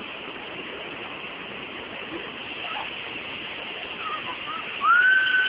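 Steady rushing noise of a waterfall. Near the end a brief loud high-pitched call rises and holds over it.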